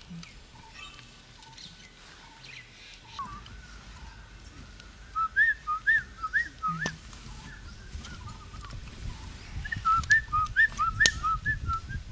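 A bird calling in two runs of quick whistled notes that swing between a higher and a lower pitch, the second run starting a few seconds after the first ends. Under the calls a low rumble grows louder near the end, and two sharp clicks stand out, the louder one near the end.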